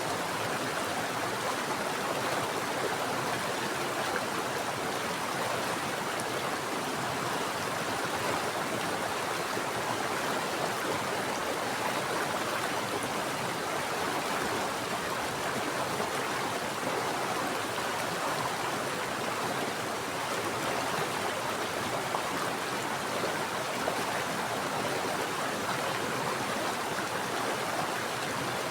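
Mountain stream water running steadily, a continuous even rush.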